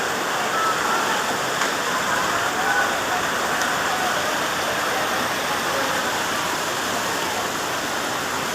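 Steady rush of water: a continuous, even hiss without breaks, as of heavy rain or fast-flowing floodwater.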